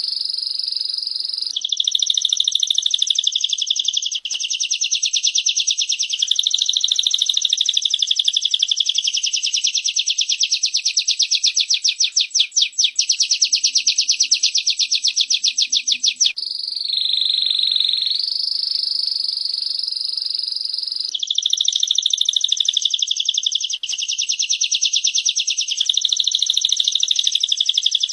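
Small songbirds, a female prenjak (prinia) and a canary, singing long, very fast, high trills that run on for many seconds. A softer, lower phrase comes in for a few seconds about two-thirds of the way through.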